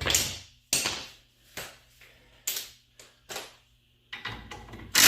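A series of sharp knocks from tools working on a car's front strut assembly, one roughly every second, then a power tool starts up loud right at the end.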